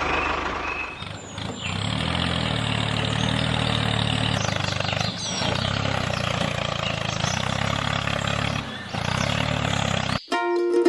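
A motor running steadily with a low hum, dipping briefly a few times, cut off about ten seconds in by plucked-string background music.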